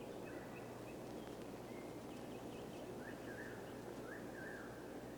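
Faint birds chirping in short scattered notes, a few of them quick rising chirps, over a steady background hiss.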